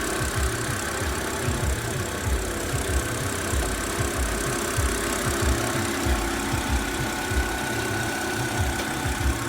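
2008 BMW 328i's inline-six engine running at idle with a low growling, whirring noise whose cause the owner doesn't know. An uneven low rumble sits under a thin, steady high whine.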